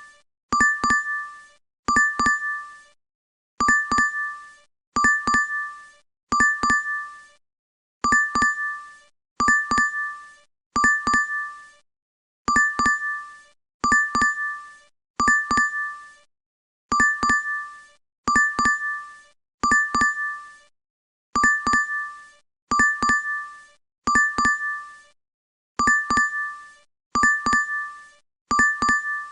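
DoorDash app notification chime, a short bright ding of two or three quick strikes on two tones, repeated over and over about every second and a half.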